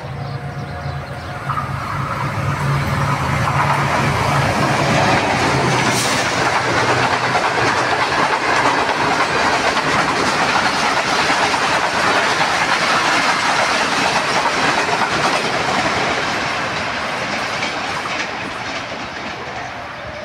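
Passenger train hauled by a GEU-20 diesel-electric locomotive passing close by: the engine's low drone in the first few seconds, then the loud, steady clatter of the coaches' wheels on the rails, fading over the last few seconds.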